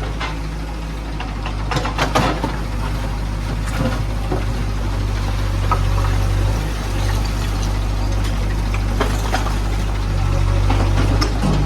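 JCB 3DX backhoe loader's diesel engine running steadily while it works, with a few sharp knocks about two seconds in.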